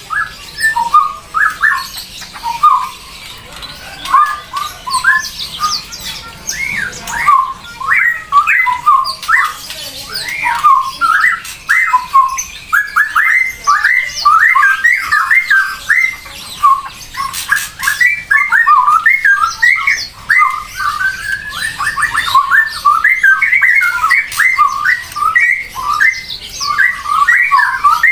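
A bird calling in quick runs of short chirps and squawks, with hardly a pause.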